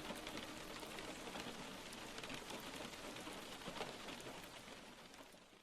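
Rain falling steadily, with many individual drops ticking through the patter, fading out near the end.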